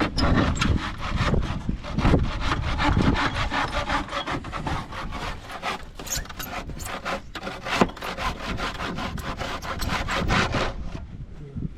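Hand saw cutting through a wooden board in quick, steady back-and-forth strokes, about three a second, stopping shortly before the end.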